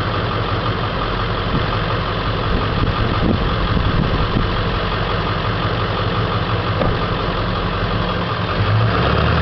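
Ford 7.3 Powerstroke V8 turbo diesel running steadily, its low engine note changing a little near the end.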